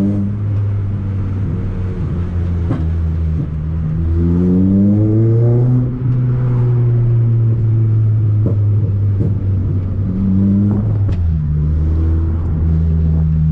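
Toyota Corolla T-Sport's four-cylinder engine heard inside its stripped-out cabin, pulling through the gears: the engine note climbs about four seconds in, holds a steady cruise, and climbs briefly again later. A few sharp ticks sound over the road noise.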